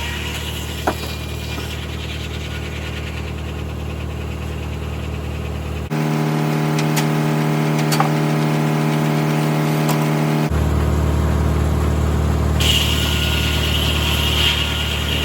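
Tractor engine running steadily at a constant speed, powering a 1950 Corley circular sawmill. The sound changes abruptly about six seconds in and switches back about four seconds later.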